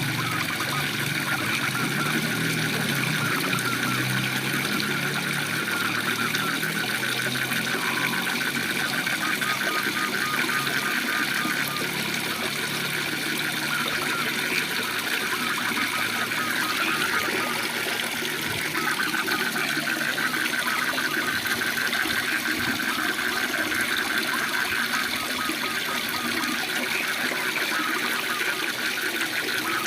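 Waterfall rushing steadily, with frogs calling in a continuous chorus of fast, pulsing trills over the water noise.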